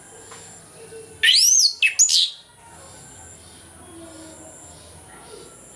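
Chestnut-capped thrush (anis kembang) singing: about a second in, one loud phrase of two or three quick arched whistles that swoop up and fall away, lasting about a second.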